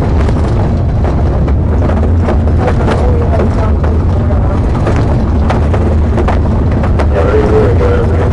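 Police car travelling at speed during a pursuit: a steady rumble of engine, road and wind noise, with scattered short clicks and knocks.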